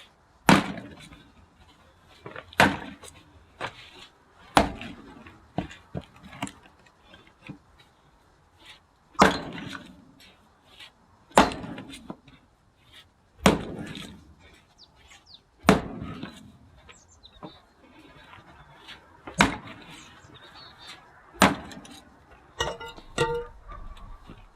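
Axe splitting firewood: sharp cracking strikes about every two seconds, with lighter knocks in between and two pauses of a few seconds.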